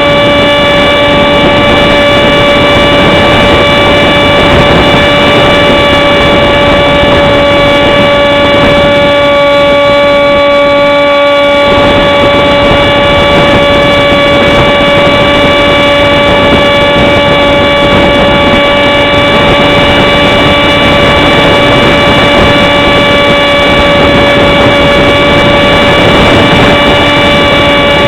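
Motor of a radio-controlled model jet running at a steady high pitch, with heavy wind noise on the microphone.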